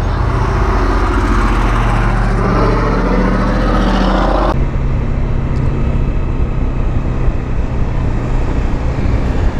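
Bajaj Dominar 400's single-cylinder engine through an SC Project exhaust, pulling under throttle with its pitch climbing for about four and a half seconds, then dropping suddenly to a lower, steady note.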